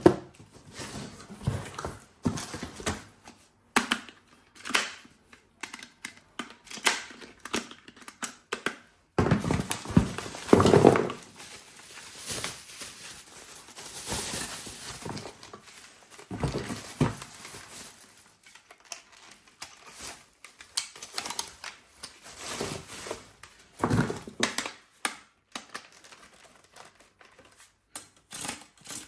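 Irregular clicks, taps and crinkling of objects and packaging being handled in a small room.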